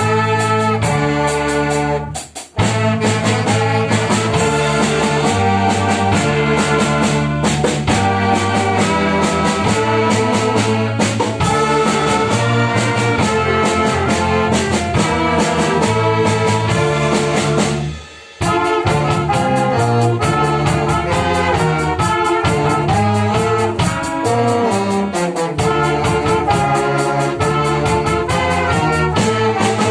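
Brass band playing loudly, trumpets and trombones to the fore, with two short breaks in the sound: one about two seconds in and one about eighteen seconds in.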